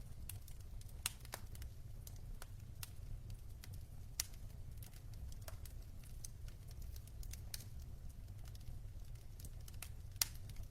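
Wood logs burning in a fireplace, crackling with irregular sharp pops over a low steady rumble. Louder pops come about a second in, about four seconds in and near the end.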